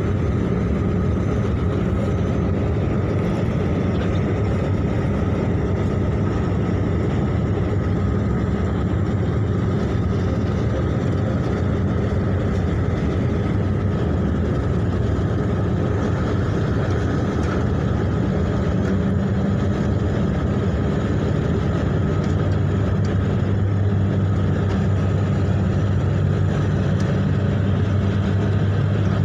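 Ship engines running with a steady low drone during docking, which grows stronger about two-thirds of the way through.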